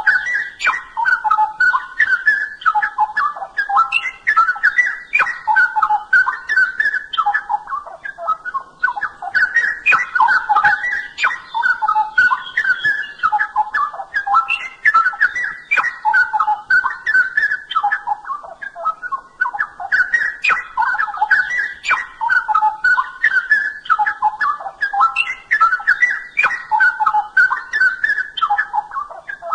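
Straw-headed bulbul (cucak rowo) singing loud, rich warbling phrases in a continuous stream, with brief pauses between runs.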